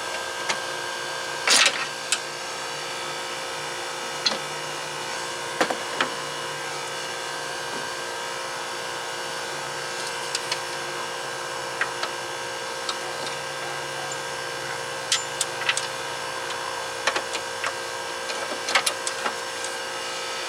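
Scattered metallic clicks and taps of a wrench loosening the 10 mm bolts that hold a headlight motor, over a steady hum.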